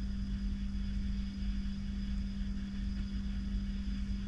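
Steady low mechanical hum: a constant drone just under 200 Hz over a low rumble, unchanging throughout, with no distinct knocks or clicks.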